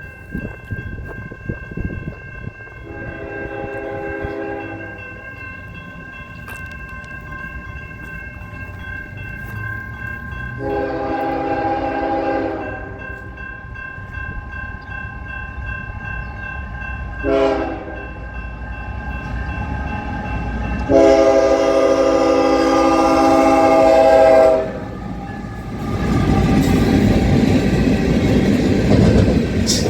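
Locomotive horn blowing the grade-crossing signal: two long blasts, a short one, then a long one. It sounds over the rumble of a train on the rails, which grows louder near the end as the train passes close.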